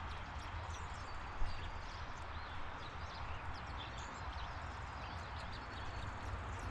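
Small birds chirping and twittering in short high calls over a steady outdoor background rumble, with one soft knock about a second and a half in.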